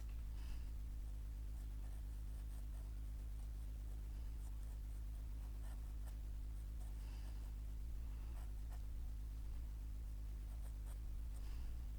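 Drawing on paper: scattered short, scratchy strokes of a pen over a steady low hum.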